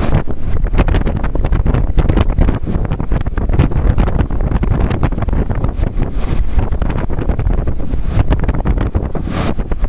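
Strong storm wind buffeting the microphone in a steady heavy rumble, with louder hissing gusts about six and nine seconds in.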